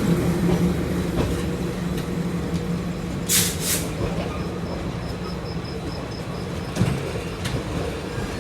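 A train running, with a low engine hum slowly fading under the rumble of the coaches. Two short bursts of hiss come about three and a half seconds in.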